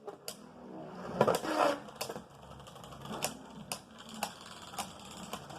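Beyblade tops Cho-Z Spriggan and Brutal Luminor spinning and hitting each other in a plastic stadium: irregular sharp clicks and knocks as they collide.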